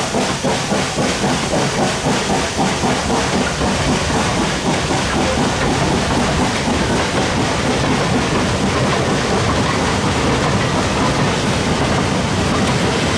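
Four-wheeled goods wagons of a slow steam-hauled freight train rolling past, their wheels clattering over the rail joints. The locomotive's rhythmic exhaust beats fade away in the first few seconds.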